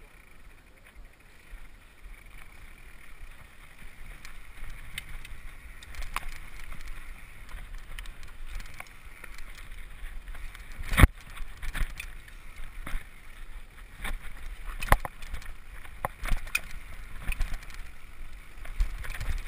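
Mountain bike riding down a rough, rocky trail: tyre and frame rumble with wind on the microphone, broken by scattered knocks and clicks, with one sharp loud knock about eleven seconds in.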